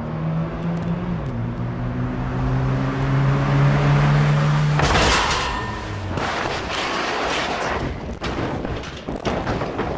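Car engine running hard at speed, with one gear change about a second in, then a sudden loud rush of noise about five seconds in. A series of heavy bangs and crashes follows as the car lands and rolls over.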